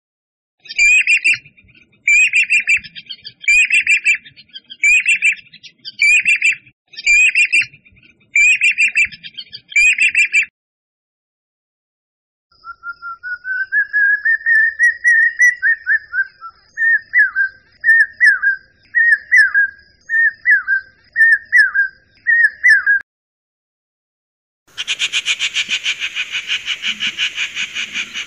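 Bird calls played one after another: a call repeated about once a second for some ten seconds, then after a pause a different bird's rising whistle that breaks into a series of short notes. Near the end a rapid pulsing buzz begins.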